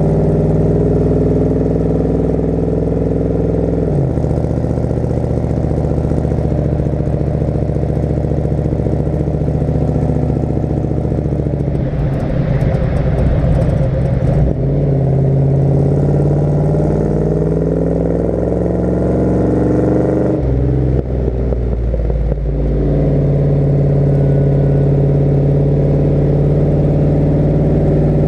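1972 Chevrolet C20 pickup's big-block V8 running through a glasspack exhaust while driving. The note holds steady, drops abruptly about four seconds in, turns rough and louder around twelve to fourteen seconds in with the pitch then sliding, and changes abruptly again about twenty seconds in before settling steady.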